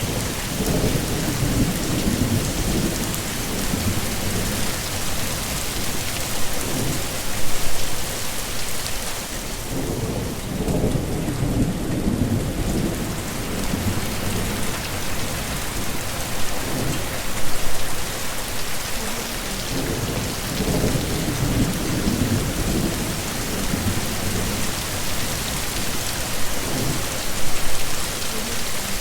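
Heavy rain falling steadily in a thunderstorm, with low rolling thunder swelling and fading every few seconds underneath.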